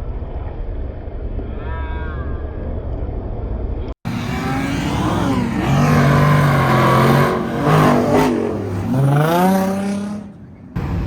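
Car engine running and then accelerating hard, its pitch rising and falling with the revs and climbing steeply near the end. A low, steady rumble comes first and cuts off abruptly about four seconds in, and the louder engine sound follows.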